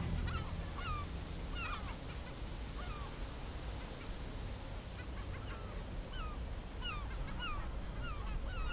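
Birds calling: many short, sharp calls that dip in pitch, scattered throughout and overlapping, over a low steady rumble.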